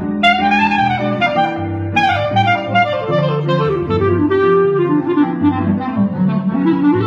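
Live small-group jazz: a woodwind plays a flowing melodic line that winds downward and climbs back up near the end, over bass notes and accompaniment.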